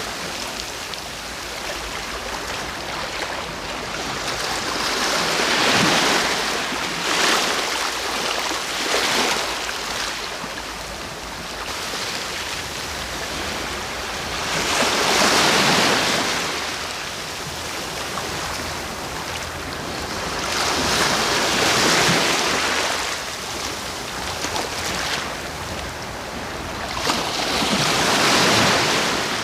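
Sea waves breaking and washing on the shore, swelling in a slow rhythm every several seconds over a steady wash of surf.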